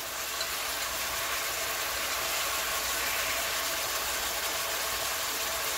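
Seasoned chicken pieces searing in hot oil in a stainless-steel pot: a steady frying sizzle over a low, even hum.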